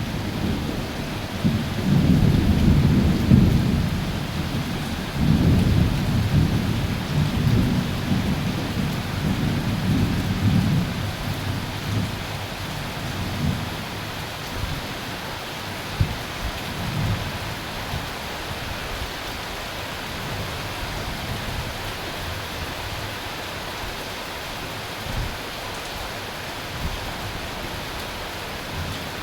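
Steady rain falling, with thunder rumbling in rolling waves for about the first ten seconds, then dying away and leaving the rain with a few faint low thuds.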